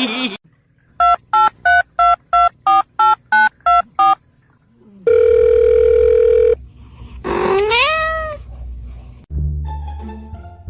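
Telephone keypad tones: nine short beeps, about three a second, then a steady tone for about a second and a half. A single rising cry follows, like a cat's meow, and music begins near the end.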